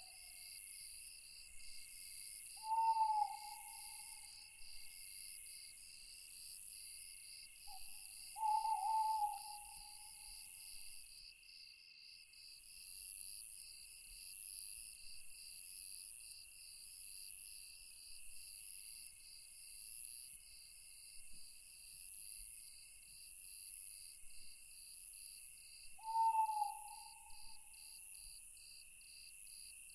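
An owl hooting three times, short low hoots that trail off, over a steady night chorus of crickets and other insects with an evenly pulsing trill.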